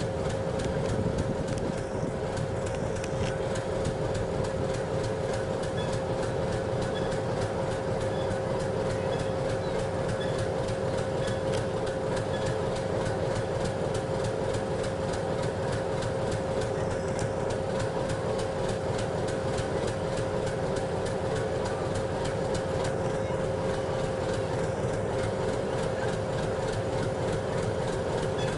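Metre-gauge YDM4 diesel locomotive idling steadily, a continuous engine rumble with a constant high whine over it.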